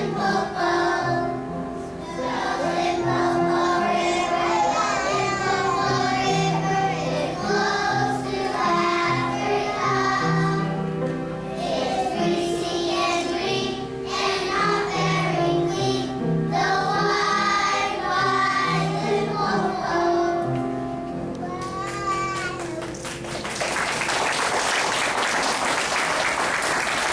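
A group of young children singing together over instrumental accompaniment. The song stops about 22 seconds in, and the audience applauds for the last few seconds.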